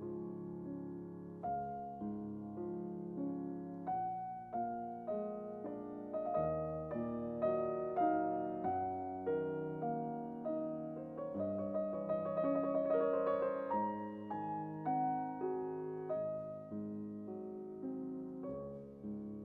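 Background piano music: a slow melody over sustained chords, with a quicker run of notes a little past the middle.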